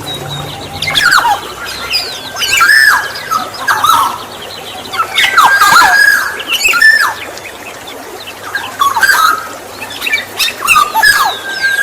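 Black-naped oriole (kepodang emas) singing: short phrases of sliding whistles, repeated every second or two.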